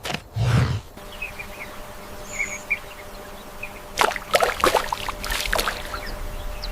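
Wildlife ambience: a deep, breathy animal sound lasting under a second at the start, then scattered small bird chirps over a steady faint hum, and a burst of crackling clicks a little past the middle.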